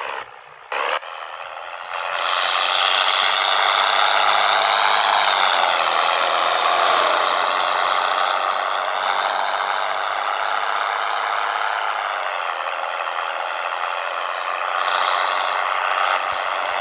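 Scania 113 truck's diesel engine running steadily under load from about two seconds in, with a sustained whine whose pitch dips slightly and then shifts again later.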